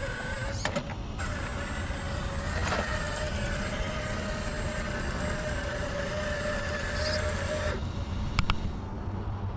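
Small electric motor of an RC crawler tow truck running steadily with a high whine, cutting off suddenly about eight seconds in, followed by a couple of clicks.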